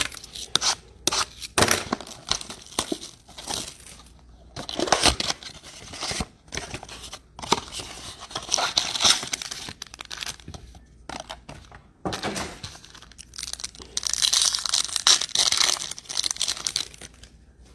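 A 2022 Select football blaster box and its card-pack wrappers being torn open by hand: irregular crinkling and ripping in bursts, with the longest, loudest stretch of ripping about fourteen seconds in.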